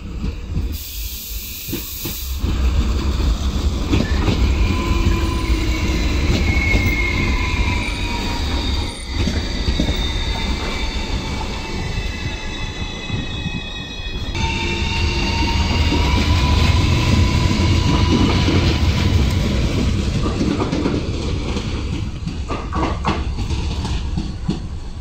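Renfe class 463 Civia electric commuter train running past at close range: a loud, steady rumble of wheels on rails with high, slightly wavering whining tones over it.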